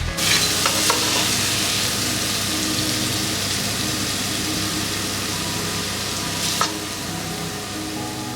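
A steady hiss that eases slightly after about six and a half seconds, over soft background music.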